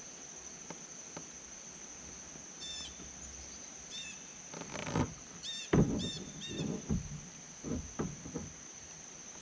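Steady high-pitched insect drone with short, repeated bird chirps over it. From about halfway, a series of knocks and thumps, the loudest a little before six seconds in.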